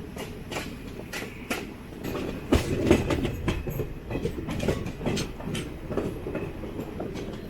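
DEMU train running over the track: a steady rumble with irregular clicks and clatter of the wheels over rail joints and points as it diverges onto a branch line, the sharpest knocks about two and a half to three seconds in.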